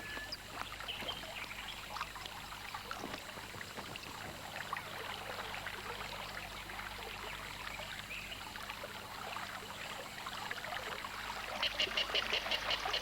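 Swamp ambience of trickling, running water, a steady crackly hiss. Near the end a rapid series of high ticks, several a second, comes in over it.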